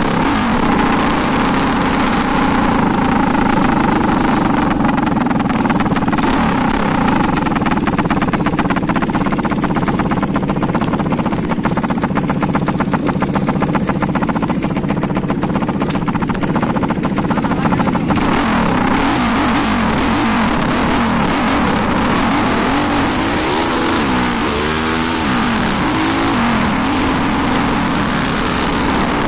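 400cc motorcycle engine running steadily, with a fine rapid pulsing through the middle. Near the end it is revved up and down several times in quick succession.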